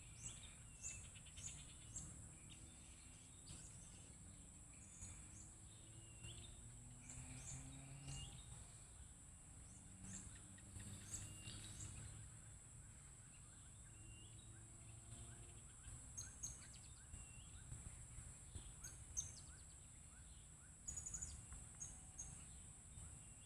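Blue-crowned hanging parrots giving short, high, thin chirps, repeated many times at irregular intervals over a steady high-pitched insect drone. The calls are faint, and there is a low rumble underneath.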